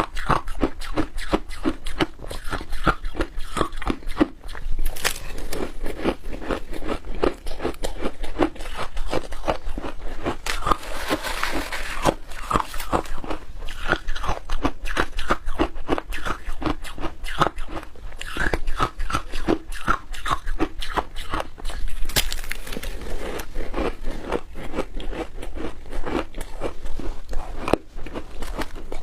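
Close-up crunching and chewing of shaved ice with milk powder: rapid, irregular crunches going on without a break.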